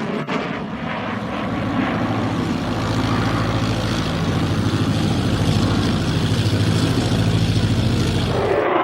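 Aircraft engine noise as a plane flies at the airshow: a steady low hum with a fast pulsing throb that grows louder through the middle, then cuts off abruptly near the end.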